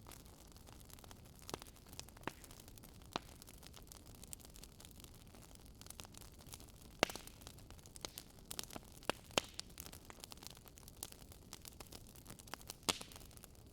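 Fireplace crackling: a soft steady hiss under irregular sharp pops and snaps, a few louder ones in the second half.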